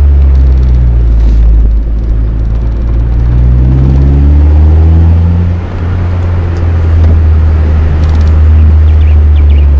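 Mazda MX-5 NB 1.8 inline-four running through an M2 Motorsport aftermarket exhaust, with a deep, steady rumble. The revs climb for a couple of seconds in the middle, then drop back.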